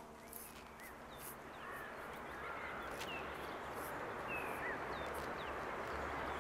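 Woodland ambience: small birds chirping faintly, a scatter of short high calls, over a soft steady hiss that grows slightly louder.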